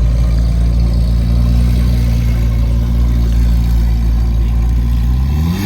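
Car engine idling steadily with a low, even note. Its pitch rises near the end as it is revved up a little.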